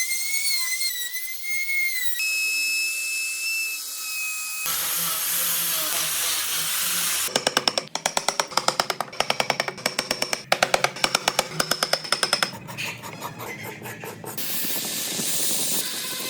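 Power tools working wood in a series of short cuts. A high-pitched whine from a spinning tool like a rotary tool or drill shifts pitch about two seconds in. Then comes a steady hiss of grinding or sanding, a fast rattling run of sharp clicks lasting about five seconds, and more hiss near the end.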